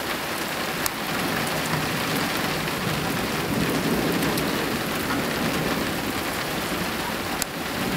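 Heavy downpour during a thunderstorm: rain falling steadily with an even hiss, and two sharp ticks, one about a second in and one near the end.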